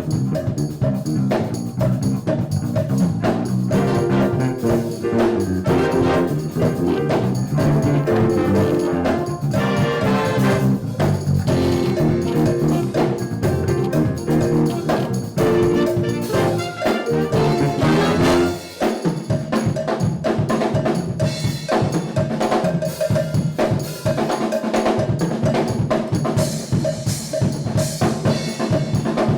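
A school band playing, with brass over a drum kit. About two-thirds of the way through, the horns stop and the drums and percussion carry on.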